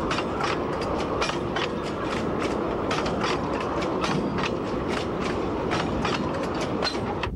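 Narrow-gauge peat train running on the bog railway: a steady rumbling run with an uneven clatter of wheel clicks, several a second, as the wagons pass over the rail joints.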